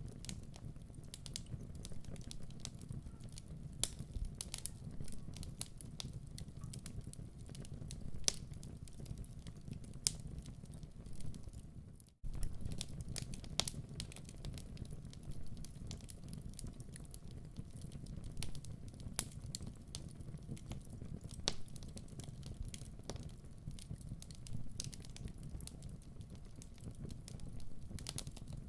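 Wood fire burning in a fireplace: a steady low rumble with scattered crackles and pops. The sound drops out for an instant about twelve seconds in.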